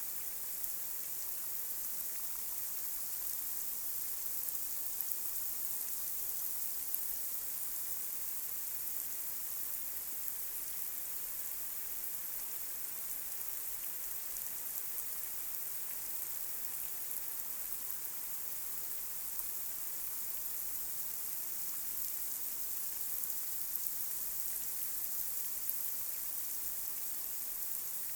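Light rain falling on a street: a steady high hiss with scattered small drop ticks.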